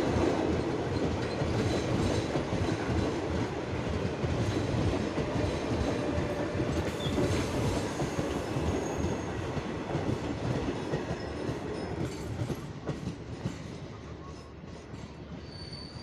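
Passenger train coaches rolling past close by, steel wheels clattering over the rail joints in a busy, uneven rhythm. The rumble fades over the last few seconds as the end of the train moves away.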